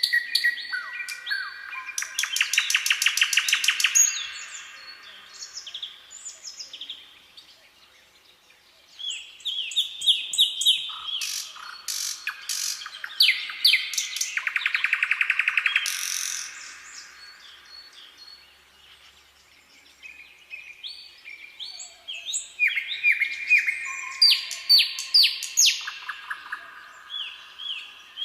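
Songbirds singing in a forest: repeated chirps and fast trills, coming in three bouts with quieter gaps between them.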